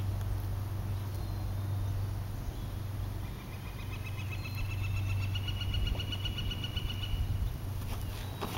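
A small bird's rapid trill, a run of fast repeated notes lasting about four seconds and rising slightly in pitch, starting about three seconds in, over a steady low rumble.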